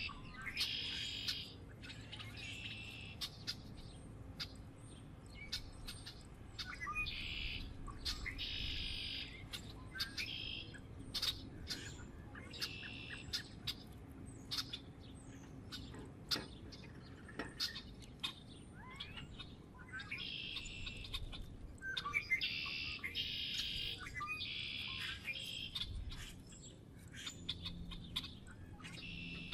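Small birds at a feeder calling, in clusters of short high calls each about half a second to a second long, with many sharp ticks in between.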